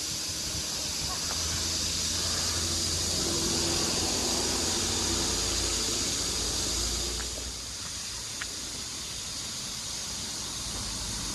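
A steady high-pitched hiss over a low rumble.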